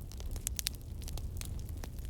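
Wood fire crackling in a fireplace: irregular sharp pops and snaps from burning logs, several in quick succession, over a steady low rumble of the flames.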